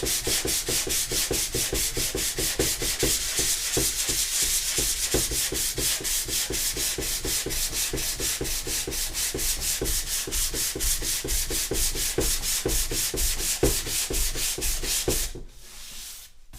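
Sandpaper scraped quickly back and forth over a Renault Laguna 2's plastic headlight lens, about five strokes a second, sanding an old coat of lacquer off down to bare plastic. The sanding stops about a second before the end.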